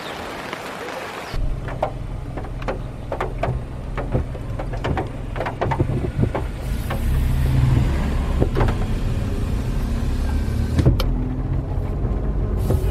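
Motor vehicle cabin on the move: a steady low engine and road rumble sets in suddenly about a second in, with many short clicks and taps over it.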